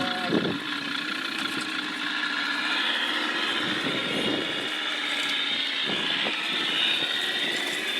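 A steady motor drone with a high whine, held at an even pitch, with a few faint clicks.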